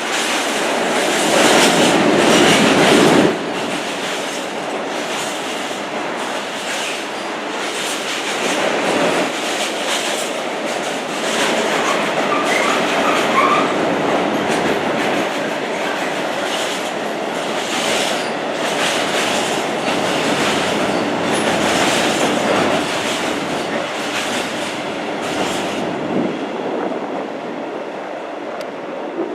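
Freight train rolling past, its wagons' wheels clattering steadily over the rail joints, loudest for a couple of seconds near the start.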